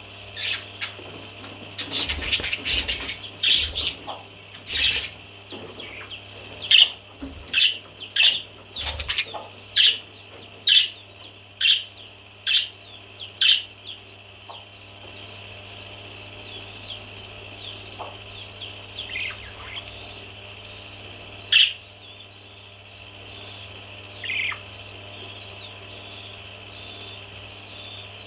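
Baby parrots calling: short sharp calls, about one a second through the first half, then only now and then, over a steady high background of chirping.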